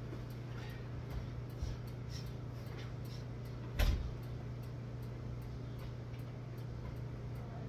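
A steady low hum with faint, regular ticking at about two to three ticks a second, and a single sharp knock about four seconds in.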